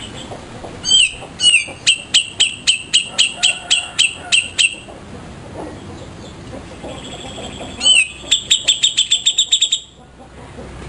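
Cica jenggot songbird calling. A run of about a dozen sharp, high notes comes at roughly three a second, and after a pause a second run of notes comes faster, at about eight a second.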